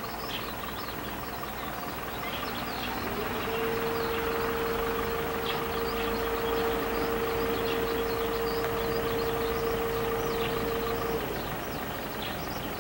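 Tobu 350 series electric train approaching on the line, its running sound growing louder, with a steady whining tone for about eight seconds in the middle. Birds chirp throughout.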